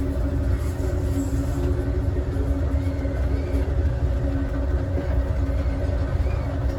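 Passenger train running at speed, heard from its last car: a steady low rumble of wheels on the rails with a faint steady hum over it.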